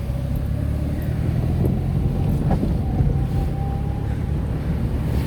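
Tata Nano being driven: its small rear-mounted two-cylinder petrol engine and road noise make a steady low rumble heard from inside the cabin.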